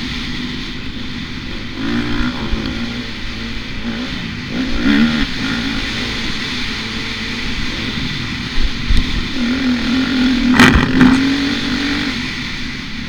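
Motocross bike engine revving up and easing off several times as it rides. A sharp thump comes about three-quarters of the way through.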